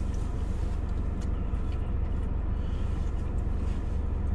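A car engine idling steadily, heard from inside the cabin: an even low rumble with a fine regular pulse. A few faint light clicks sit on top of it.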